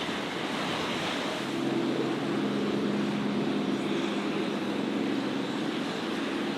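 A boat engine running steadily, coming in about a second and a half in, over the rushing of surf and wind.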